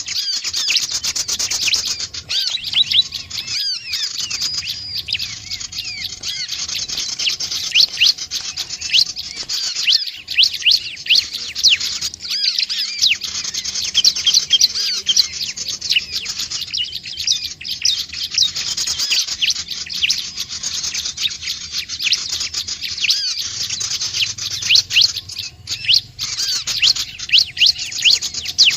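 Prinias (ciblek/prenjak) calling in a dense, unbroken chorus of rapid, high chirps and quick sweeping notes, several birds overlapping. This is the kind of call used as a lure to draw other small birds in.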